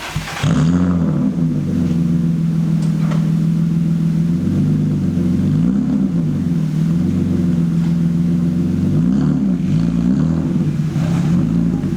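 BMW E36's engine catching about half a second in and then running steadily, with a couple of brief blips of the throttle.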